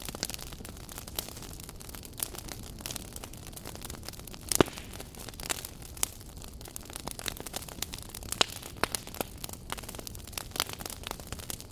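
Wood fire burning in a fireplace, crackling: irregular sharp pops and snaps over a steady low hiss, with one louder pop about halfway through.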